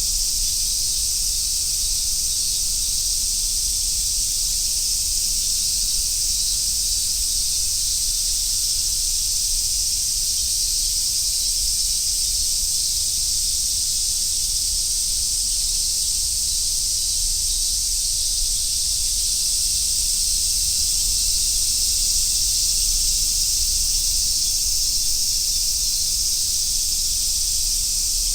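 A chorus of summer cicadas, with large brown cicadas and Robust cicadas among the species named, makes a dense, steady high-pitched sizzle that holds unbroken and even in level throughout.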